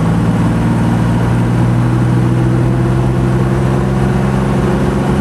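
In-cabin sound of a 1967 Alvis TF21's straight-six engine pulling the car up through second gear of its Borg Warner three-speed automatic, a steady drone over road noise.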